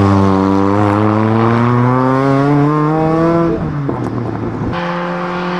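Rally car engine accelerating hard, its pitch climbing steadily for about three and a half seconds before the note breaks off. After an abrupt cut, another rally car's engine holds a steady note.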